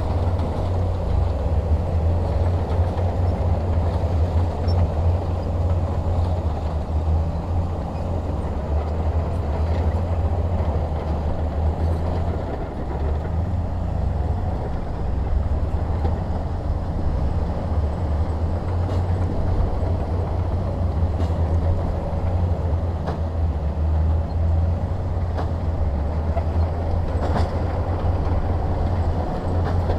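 Heavy diesel engine of earthmoving machinery running steadily with a deep low rumble, with faint clicks now and then.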